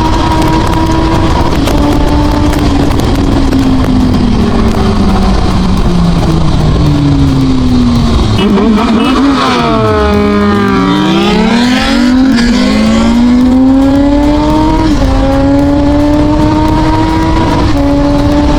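Inline-four sport motorcycle engine running hard at speed over wind rush. Its pitch sags, then climbs back with a couple of sudden steps like gear changes. Around the middle a second engine sweeps past, its pitch rising and then falling.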